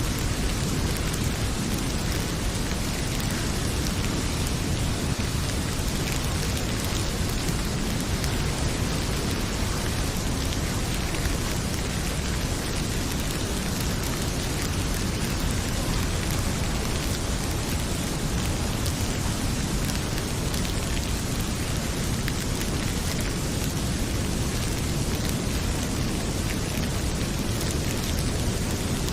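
Heavy rain pouring steadily with a deep, low rumble underneath, and a wood fire crackling with scattered faint pops.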